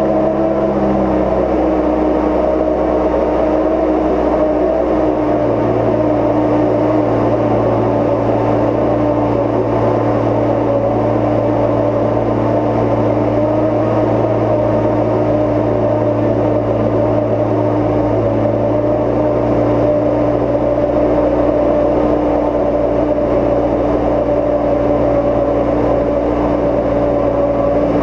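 Steady engine and propeller drone inside a Cozy Mk IV pusher's cabin. A low buzzing drone sets in about a second in and grows stronger about five seconds in: loose gap-seal tape over the wing spar gap fluttering in the airflow.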